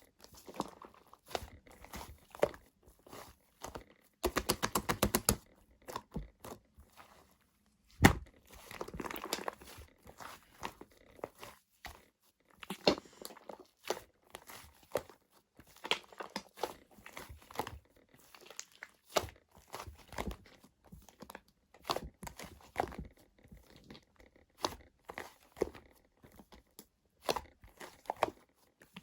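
Slime being kneaded and mixed with shaving foam by hand: wet crackling, squishing and small popping clicks. A fast run of crackles comes about four seconds in, and a single sharp knock, the loudest sound, comes about eight seconds in.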